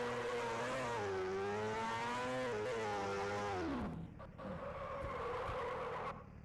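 A sportbike engine revs, its pitch wavering up and down, then dropping away about four seconds in. A harsher hissing sound follows for about two seconds and cuts off abruptly.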